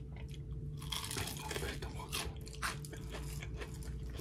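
Close-up crunching and chewing of crispy fried food, a run of sharp crunches starting about a second in.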